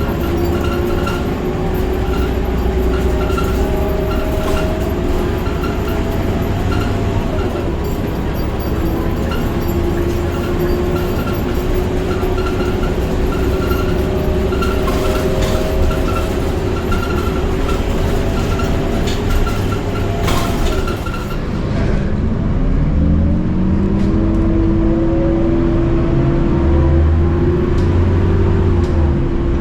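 Scania K230UB bus's DC9 diesel engine and ZF Ecomat 6HP502C automatic gearbox under way, heard from inside the cabin, with a steady engine note for most of the time. About two-thirds through, the note dips, then climbs again as the engine revs up under acceleration.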